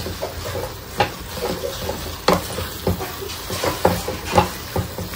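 Minced mutton sizzling as it fries in masala in a pan, stirred with a wooden spatula. A handful of sharp knocks and scrapes come from the spatula against the pan.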